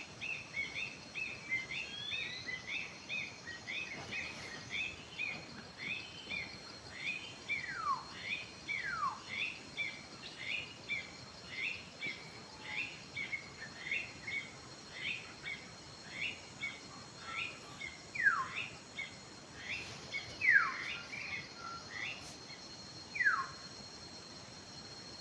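Wild birds calling: a steady run of short, high chirps at about two a second, broken by a few loud whistles that slide downward. The chirping stops near the end.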